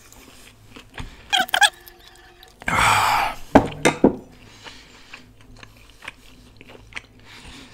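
Close-up eating sounds from a person chewing: a couple of short squeaky mouth sounds, a loud breathy rush about three seconds in, a few sharp lip smacks just after, then faint chewing clicks.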